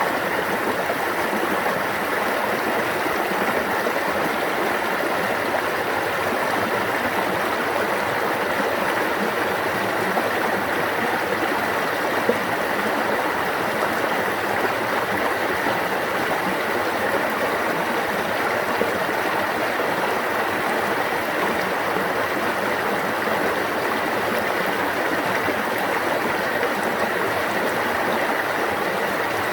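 A stream of water running steadily, an even rushing babble with no break.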